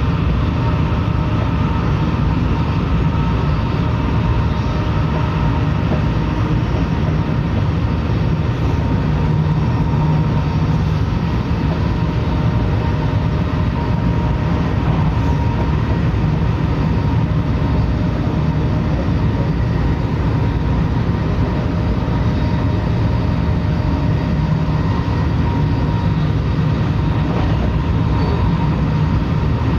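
Narita Express E259-series electric train running at speed, heard from inside the passenger car: a steady rumble of wheels and running gear, with a faint steady whine above it.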